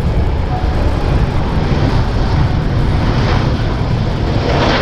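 Airliner engines running with a steady, heavy rumble, as a passing aircraft moves on or near the runway.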